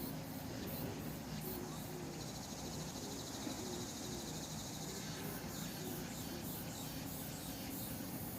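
Grass insects singing: high, short chirps repeating about three times a second. From about two seconds in, a steady high buzzing trill from another insect joins for about three seconds, then stops.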